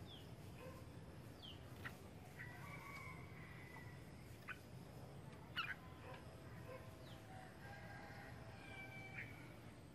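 Faint bird calls: a few short, high, falling chirps and a couple of longer held notes, with a few light clicks.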